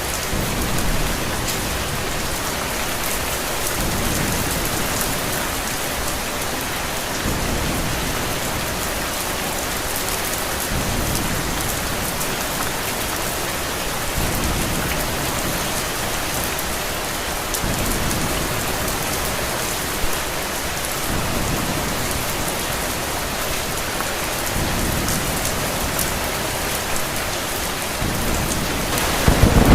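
Steady heavy rain, with low rumbles swelling every few seconds, and a louder roll of thunder building near the end.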